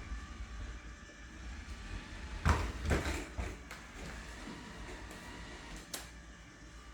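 Roomba robot vacuum running with a steady low hum, with a cluster of loud knocks and scraping about two and a half seconds in and a single sharp click near the end.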